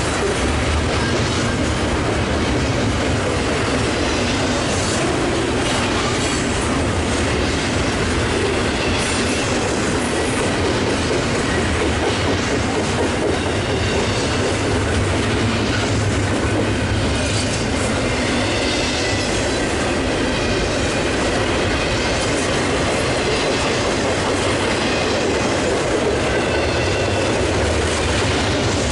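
Union Pacific double-stack intermodal train's container cars rolling past close by: a steady rumble and clatter of steel wheels on the rails, with a thin wheel squeal coming and going.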